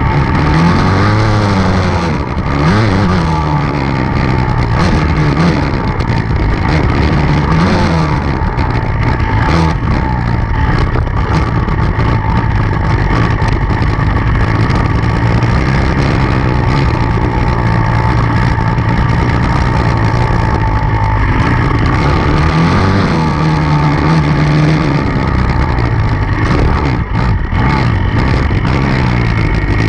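Enduro dirt bike engine running hard, its pitch rising and falling again and again with throttle and gear changes.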